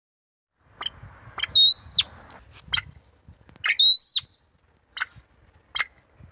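Bird calls: a few short, sharp high notes and two drawn-out, clear whistled notes held about half a second each.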